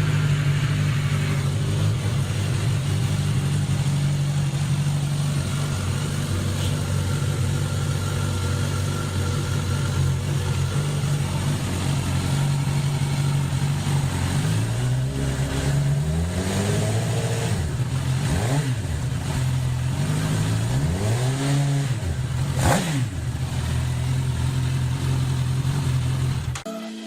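Suzuki GSX-S1000's inline-four engine idling steadily, then blipped with the throttle several times from about halfway in, the revs rising and falling each time, with a last short, sharp blip near the end.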